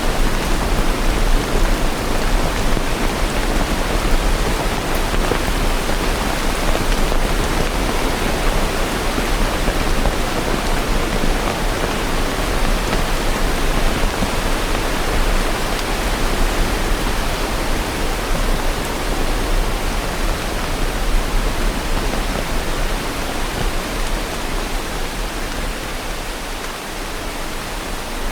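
Steady heavy rain falling, an even dense hiss.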